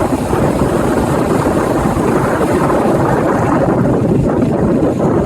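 Strong wind buffeting the microphone in a loud, steady rumble, over the wash of surf.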